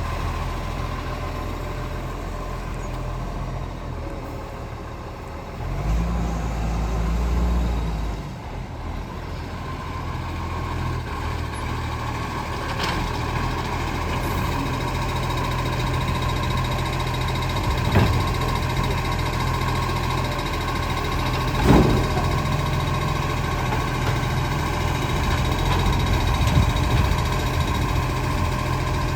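Garbage truck's diesel engine running steadily, with a louder, deeper stretch about six seconds in and a few sharp knocks later on.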